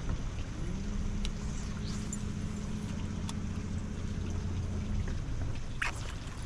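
A boat motor hums steadily over low wind and water noise. It comes on rising in pitch about half a second in, holds one steady pitch, and stops about five seconds in.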